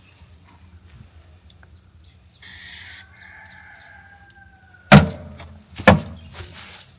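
Starting fluid igniting inside a skid steer tire to blow the bead onto the rim: two loud bangs about a second apart, after a short hiss a few seconds earlier.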